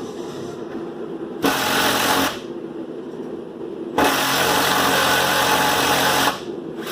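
An impact wrench runs in two bursts, a short one about a second and a half in and a longer one of about two seconds from about four seconds in, undoing exhaust fasteners.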